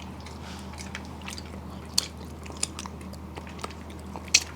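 Close-miked eating sounds: soft chewing with a few scattered sharp mouth clicks and smacks while eating bony steamed hilsa fish, over a faint steady low hum.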